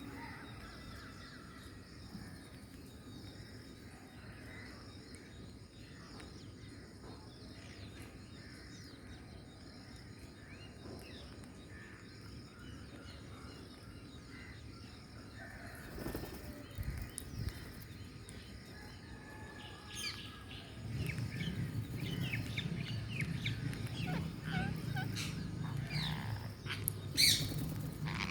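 Parrots chirping and calling, sparse and faint at first, then busier from about two-thirds of the way in, with a low rumble underneath. One louder squawk comes near the end. A few short thumps are scattered through.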